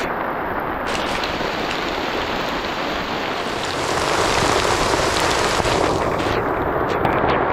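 Heavy rain pouring down in a storm, a steady dense hiss that grows louder about four seconds in.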